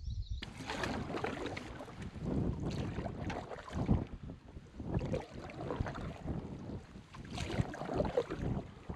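Canoe being paddled across a lake: water splashing and swishing around the paddle and hull in uneven surges, with wind rumbling on the microphone.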